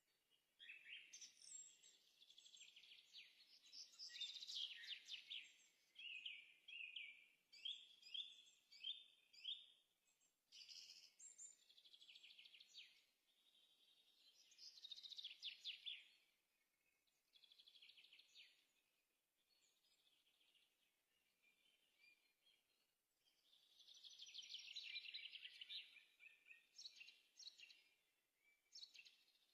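Faint birdsong: short, rapid twittering and trilling phrases repeat every second or two, with short pauses between them.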